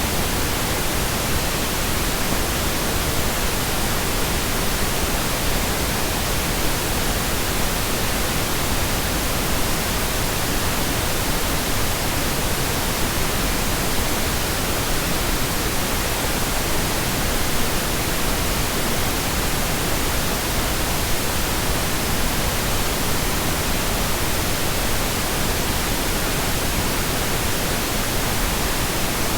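Steady, unbroken pink noise: an even hiss spread across all pitches, with no changes.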